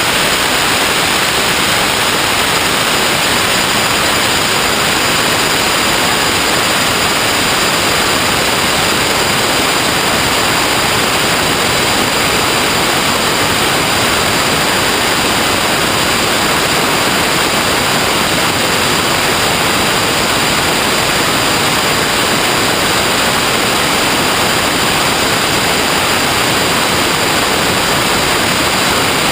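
Steady, unchanging hiss like static or white noise, loud and even throughout, with no separate events.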